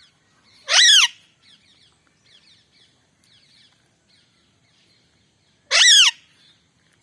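Pet parrot screeching twice, two loud harsh calls of under half a second each, about five seconds apart. Faint chirping of other birds goes on in between.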